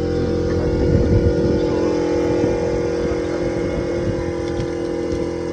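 An engine idling steadily, with a brief surge about a second in.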